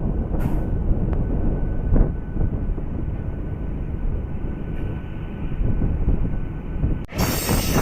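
MEMU electric passenger train running along the track: a steady low rumble with a few sharp clacks in the first two seconds. About seven seconds in, the sound cuts abruptly to a brighter, harsher rattle.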